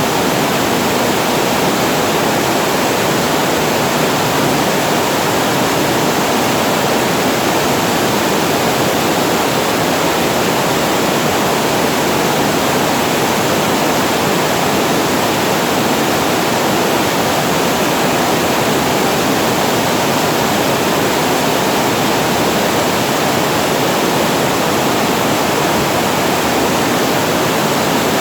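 Water pouring over a weir and falling into the pool below: a loud, steady rushing that does not change.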